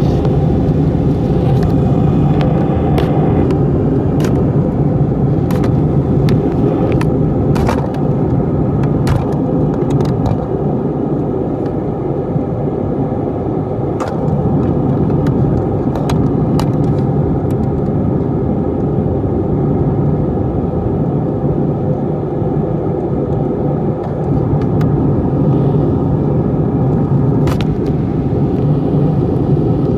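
Steady low rumble of engine and air noise inside a passenger plane's cabin, with scattered light clicks and rattles, most of them in the first ten seconds.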